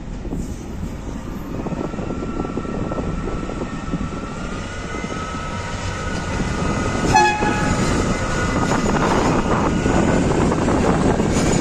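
Small diesel shunting locomotive hauling passenger coaches past at low speed, its running accompanied by a high whine. It gives one short horn blast about seven seconds in, after which the wheels rumbling and clattering over the rails grow louder as the coaches pass close.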